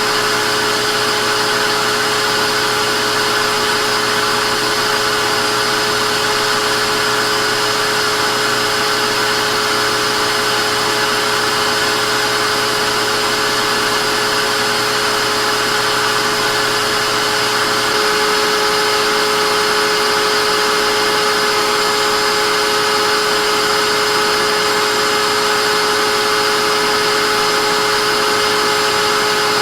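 Vacuum cleaner running steadily: a constant rush of air with a motor whine over it. About two-thirds of the way through, the tone shifts slightly and gets a little louder.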